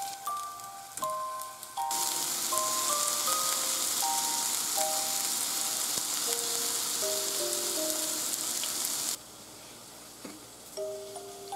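Chicken-breast and tofu tsukune patties sizzling in oil in a frying pan: a dense, hissing sizzle that comes in about two seconds in and cuts off suddenly near the end. A light melody of short plucked notes plays under it.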